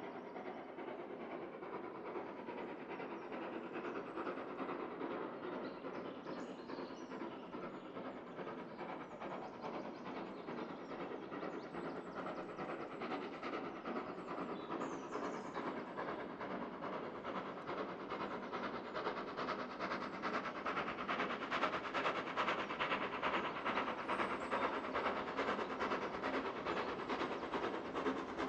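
A steam-hauled train running on the line, with a steady rumble and clatter that grows louder about two-thirds of the way through.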